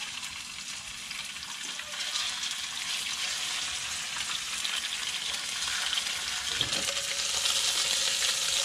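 Thin tuna slices sizzling as they fry in hot oil in a frying pan: a steady hiss that grows a little louder about two seconds in.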